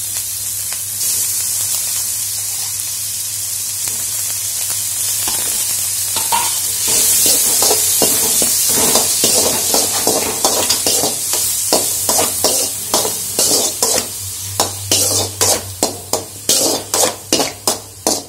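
Prawns with sliced onions and green chillies sizzling steadily in hot oil in a metal wok. From about six seconds in, a perforated metal ladle scrapes and stirs them against the pan in repeated strokes, which turn sharper and more regular near the end.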